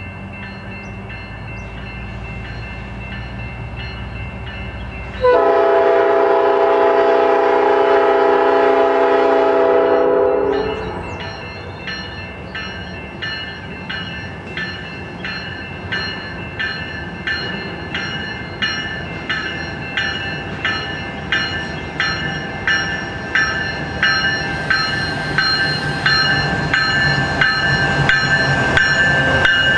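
Freight train's diesel locomotive approaching and passing, its engine rumbling. About five seconds in, its multi-tone horn sounds one long blast of about five seconds. Its bell rings steadily throughout, in even strokes that grow louder as the locomotive draws alongside.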